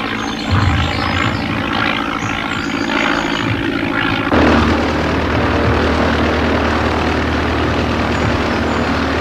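Propeller-driven biplane engine running steadily. About four seconds in the sound shifts abruptly to a deeper, heavier drone.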